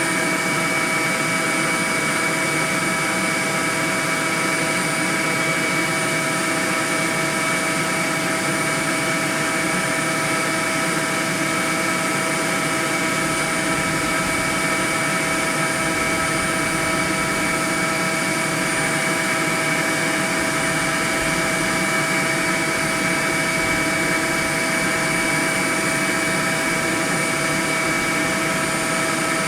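Honeybee swarm buzzing: a dense, steady hum of many bees in flight.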